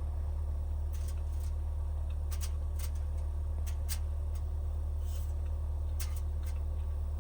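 Heavy rain on a van's roof heard from inside the cabin as a steady low rumble, with scattered small clicks and rustles of handling close by.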